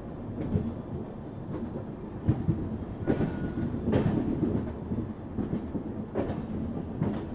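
Loknayak Express passenger coaches running along the track, heard from an open coach window: a steady low rumble of wheels on rail, broken by irregular clacks and knocks.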